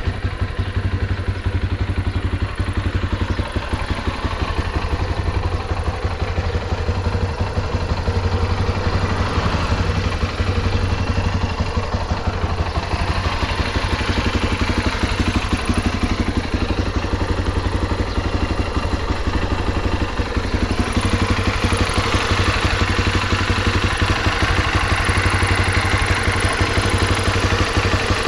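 Yamaha XT250T's air-cooled single-cylinder four-stroke engine idling after a cold start, running evenly with no abnormal noises. It gets a little louder about three-quarters of the way through.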